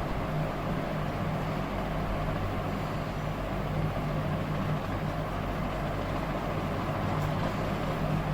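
Steady background hum with an even rushing noise, the low hum holding one pitch throughout.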